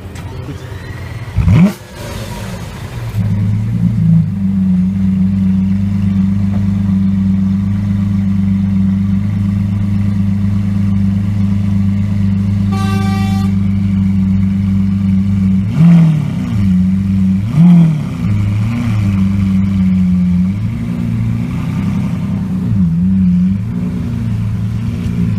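A supercar engine catches with a sharp, loud rev and then settles into a steady, deep idle. About two-thirds of the way through it is blipped twice, hard, followed by a few lighter blips. A short car horn toot sounds about halfway through.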